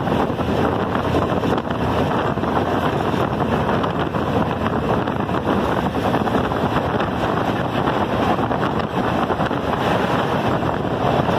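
Steady rushing noise of a moving train heard from aboard, mixed with wind on the microphone.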